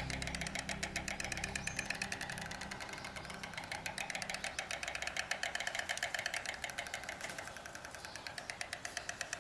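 White storks clattering their bills at the nest, a fast dry rattle of many clicks a second that dips slightly near the end. This is the pair's greeting display as the partner rejoins the mate on the nest. A low steady hum runs under the first half.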